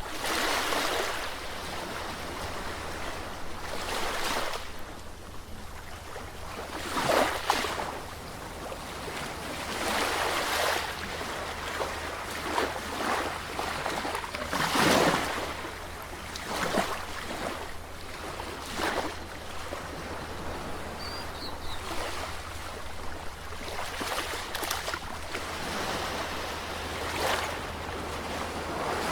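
Sea waves breaking on the shore, the surf swelling and washing back every two to three seconds, over a steady low rumble.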